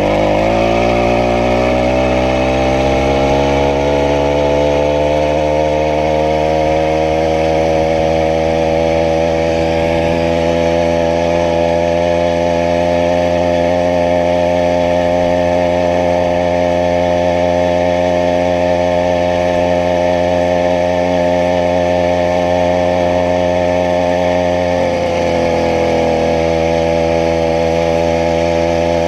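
Small 80cc two-stroke bicycle engine running, rising in speed over the first couple of seconds and then holding a steady high, buzzing pitch, with a brief dip in speed near the end.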